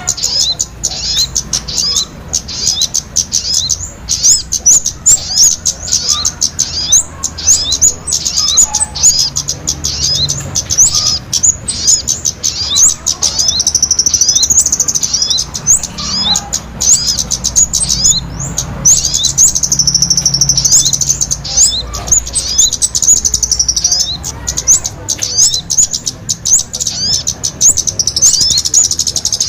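Small birds chirping and twittering in rapid, high-pitched notes, several a second, broken by longer buzzing trills around the middle and again near the end. This is a bird-lure call recording used to draw small birds in.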